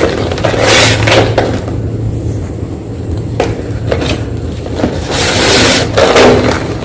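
White gym chalk being crunched up close: a few short, sharp crunches, then a longer, louder crunch about five seconds in, over a low steady hum.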